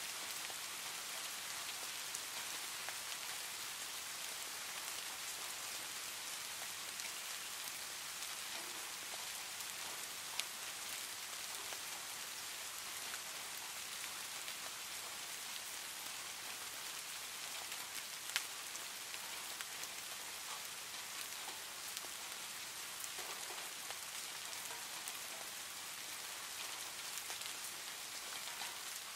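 Steady rain, an even hiss of falling drops, with a couple of brief sharp clicks about ten and eighteen seconds in.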